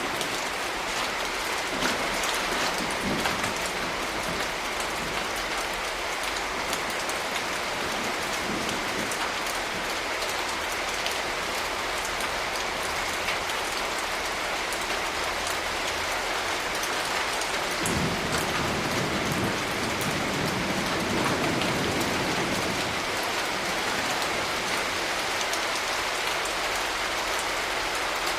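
Steady rain falling, with individual drops striking a surface. A low thunder rumble swells about two-thirds of the way through.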